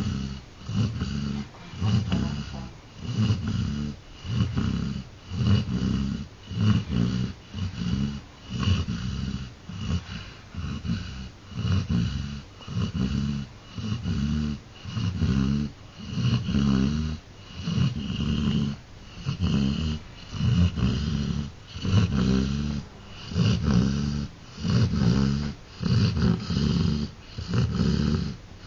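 A sleeping dog snoring in a steady, even rhythm, each breath a low rasp.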